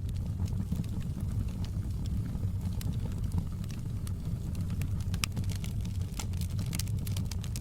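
Wood fire crackling in a fireplace: a steady low rumble of flames with scattered sharp pops and crackles, which come more often in the second half.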